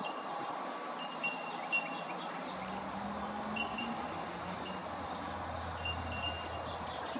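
Riverside outdoor ambience: a steady hiss with short high chirps repeating every second or so and a few brief higher calls near the start. A low hum comes in about two and a half seconds in.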